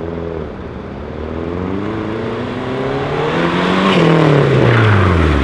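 Lancia Delta rally car's turbocharged four-cylinder engine revving, the revs climbing steadily for about four seconds, then dropping away near the end.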